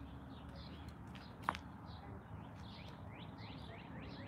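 Songbirds chirping in the background, with the chirps coming in a quick run in the last second or so. A single sharp click about a second and a half in.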